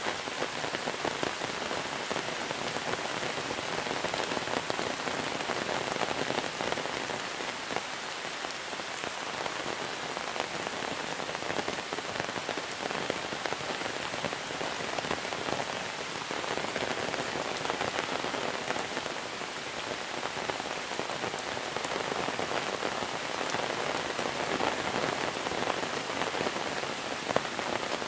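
Steady heavy monsoon rain falling on surfaces: a dense patter of drops that swells and eases slightly every few seconds.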